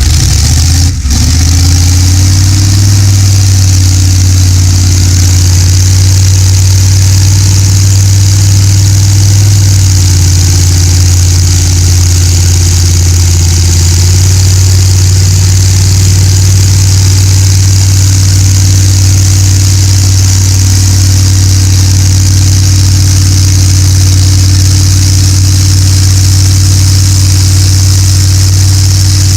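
Pulling tractor's engine running loud and steady close by, with a brief dip about a second in, then a slight rise in pitch and a constant drone.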